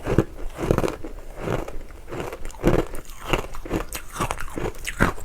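Matcha-powdered ice being bitten and chewed close to the microphone: a string of irregular crunches, about one or two a second.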